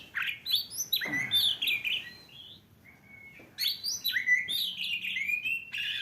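Bird chirps and whistles playing from a phone's speaker: quick rising and falling chirps, a lull of about a second and a half near the middle, then more chirping.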